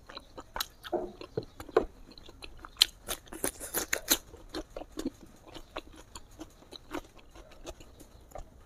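A mouthful of smoked pork being chewed close to a lapel microphone: irregular wet mouth clicks, several a second, busiest around the middle.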